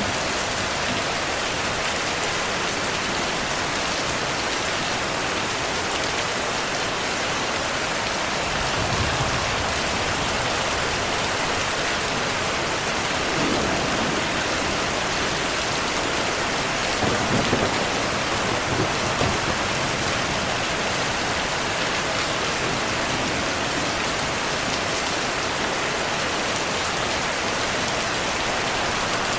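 Heavy, steady rain hissing evenly, with distant thunder rumbling low a few times: briefly about a third of the way in, again around the middle, and loudest a little past the middle.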